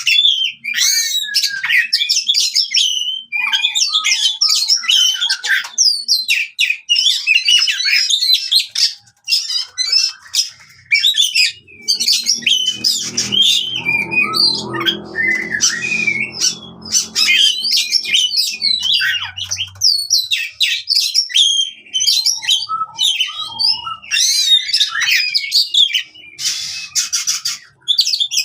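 Oriental magpie-robin (kacer) singing non-stop in fast, varied runs of whistles, chatters and squawks: its aggressive fighting song.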